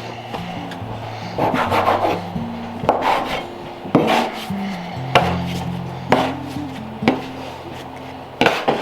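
Kitchen clatter: sharp knocks and scrapes about once a second, heard over soft background music with held low notes.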